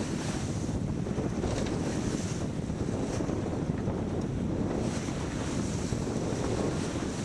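Wind buffeting the microphone and water rushing past the hull of a sailboat under way: a steady low rumble with a fainter hiss above it.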